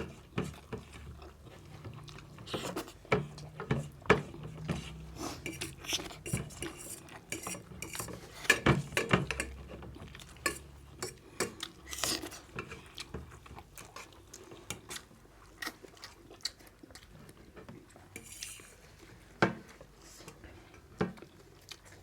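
Metal spoons and forks clinking and scraping against bowls and plates in quick, irregular strokes during fast eating.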